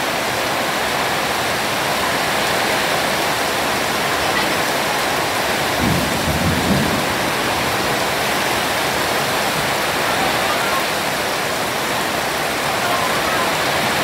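Heavy rain pouring down in a steady hiss, with a brief low rumble about six seconds in.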